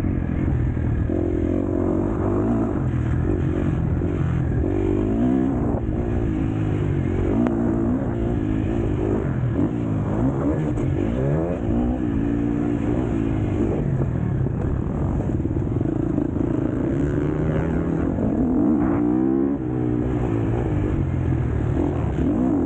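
KTM SX-F four-stroke motocross bike engine ridden hard, revving up and dropping back over and over as the throttle opens and closes and the gears change.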